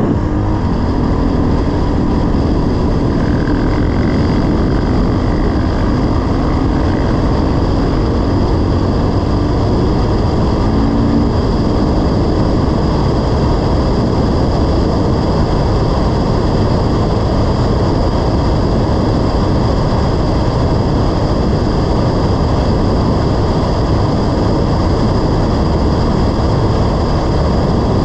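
Dirt bike riding at a steady pace: the engine running under load, mixed with heavy wind rush on the microphone. The engine's pitch wavers for the first ten seconds or so, then sinks into the wind noise.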